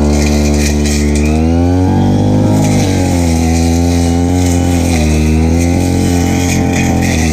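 Stihl FR3001 backpack brushcutter engine running hard, its speed climbing and then dipping and recovering a couple of times as it works through grass.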